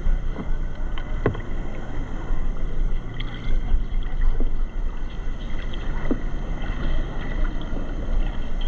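Tour boat moving along the river: a steady low rumble and water noise, with a few sharp knocks.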